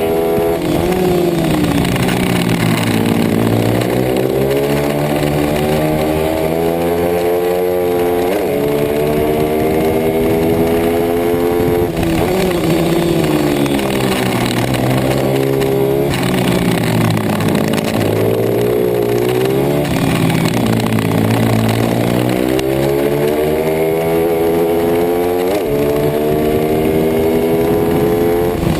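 Racing pit bike's single-cylinder engine at full throttle. It revs up, drops back sharply every few seconds, then climbs again, over and over.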